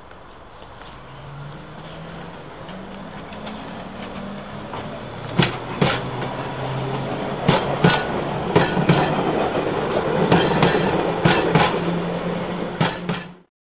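London Underground 1960 Tube Stock train approaching and running past along the platform: a low hum grows steadily louder, then from about five seconds in the wheels click over the rail joints. The sound is loudest as the train passes and cuts off suddenly just before the end.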